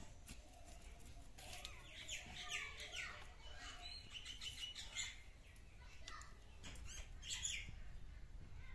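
Birds chirping, with short, quick high calls coming in clusters, thickest around two to three seconds in and again around seven seconds.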